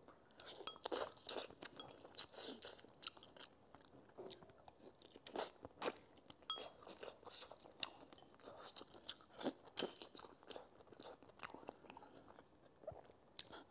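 Close-up eating sounds: a person chewing braised chicken and rice, with irregular wet smacks and clicks of the mouth.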